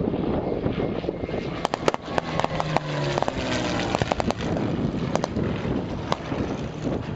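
Wind buffeting the microphone over the distant drone of a piston-engined fighter aircraft, with a few sharp clicks about two and four seconds in.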